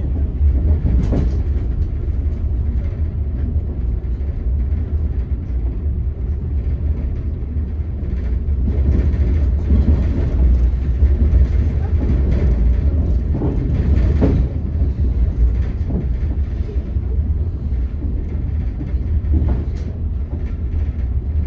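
Passenger train coach running, heard from inside: a steady low rumble of wheels on rails, with a scattering of short knocks as the wheels pass over rail joints.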